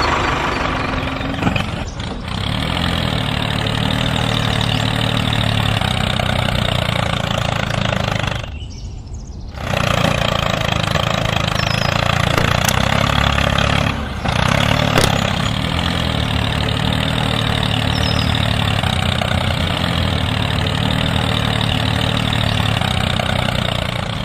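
Tractor engine running steadily, a low even drone. It drops out for about a second around eight seconds in and dips again briefly near fourteen seconds.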